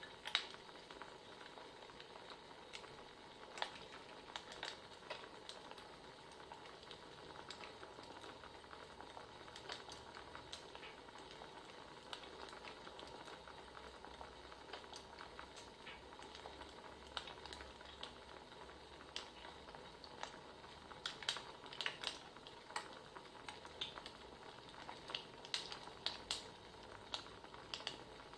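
Faint wood fire crackling: a soft steady hiss with irregular sharp pops and snaps, which come in quick clusters about three quarters of the way through and again near the end.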